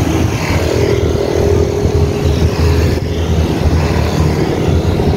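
Motorcycle and car traffic on a busy road, heard from a moving bicycle, under a constant low rumble. A steady engine hum holds for about the first three seconds, then fades.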